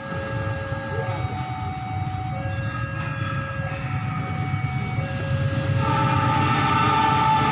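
A train running through the station with a steady low rumble, over a series of held warning tones, each about a second long and alternating between two pitches. A louder, continuous horn-like tone comes in about six seconds in.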